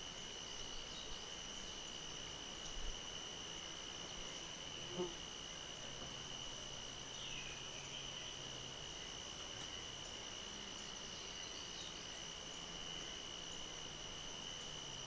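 Dusk insect chorus in a countryside reserve: a steady, unbroken high-pitched trilling from many insects, with a faint short falling bird call about seven seconds in.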